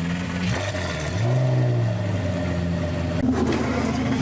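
High-performance car engine running just after start-up, with a short rise and fall in revs a little over a second in, settling to a steady idle. The engine note changes abruptly a little past three seconds in.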